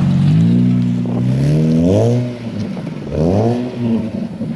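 Car engine running, then revved twice in quick blips, rising sharply in pitch and falling back each time.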